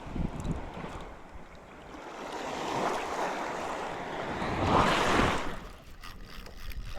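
Sea surf washing against a rocky shore, swelling twice.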